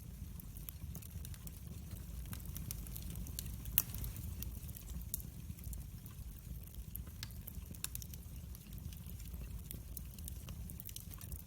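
Wood fire burning in a fireplace: a low steady rumble with scattered crackles and pops, the loudest pop a little under four seconds in.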